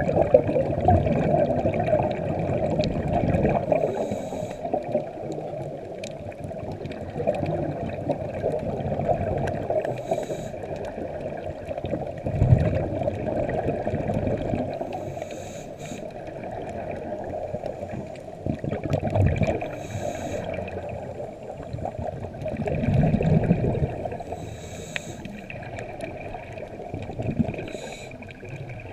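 Underwater sound of a scuba diver breathing through a regulator, with exhaled bubbles gurgling and rushing past the camera housing in bursts every five or six seconds.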